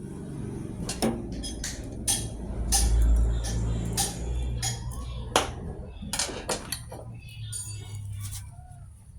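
Metal tools and engine parts clinking and knocking as they are handled, a dozen or so sharp clinks over a steady low hum, with a heavier low thud about three seconds in.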